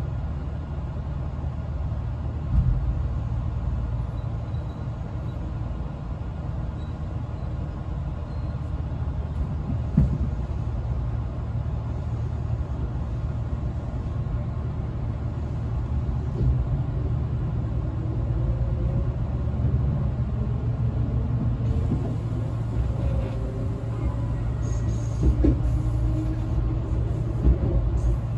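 Cabin sound of a Tobu 200-series limited express car: a steady low hum with a couple of single knocks while standing. Then, from about two-thirds through, a slowly rising motor and gear whine from its DC traction motors (field-added excitation control) as the train starts off and accelerates, with a few knocks near the end.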